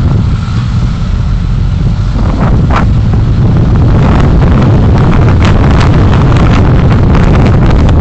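Wind buffeting the microphone of a moving vehicle, loud and gusty, over a steady low road-and-engine rumble. It gets a little louder about two seconds in.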